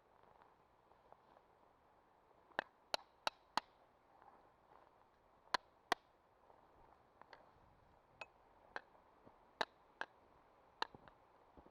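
Irregular sharp metallic clinks of tyre chain links, a dozen or so over the stretch, some in quick pairs, over a faint hiss.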